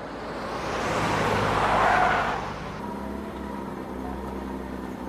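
Cartoon vehicle sound effect: a rushing pass-by noise that swells for about two seconds and drops off suddenly, then a steady engine hum.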